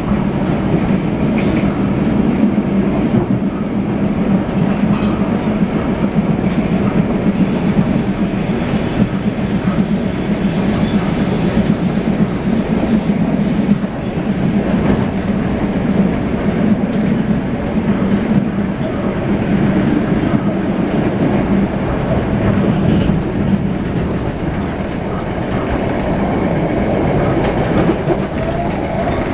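Running noise inside a moving PATH rapid-transit car: a steady rumble of wheels on the rails with a constant low hum.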